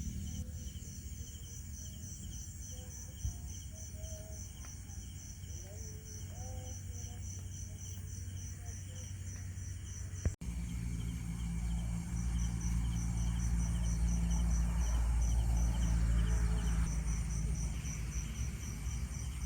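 Insects chirping, a steady high pulsing several times a second. About halfway through the sound cuts abruptly and a deep low rumble sets in under the chirping.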